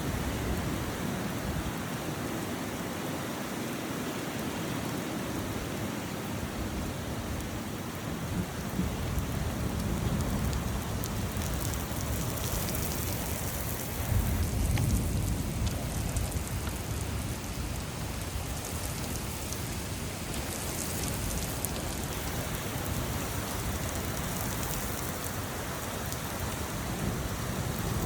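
Steady rain falling, with low rumbles swelling up about ten seconds in and more loudly about fifteen seconds in, like distant thunder.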